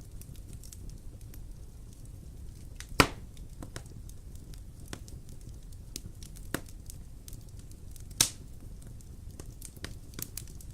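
Fire burning in a fireplace: steady low rumble with a scatter of small crackles and two loud sharp pops, about three seconds in and again about eight seconds in.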